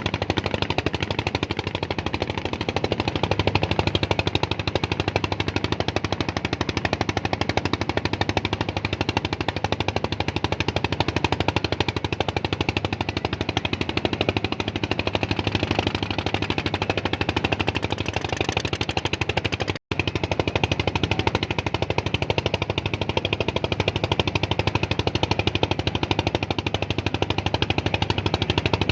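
A small engine running steadily with a fast, even chugging beat, cutting out for an instant about twenty seconds in.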